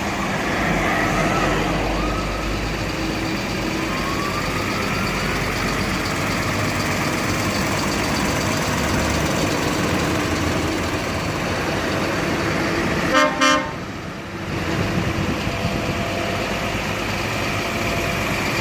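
Heavy trucks rolling past with steady engine noise, a siren wailing up and down in the first few seconds, and a truck horn giving two short loud blasts about 13 seconds in.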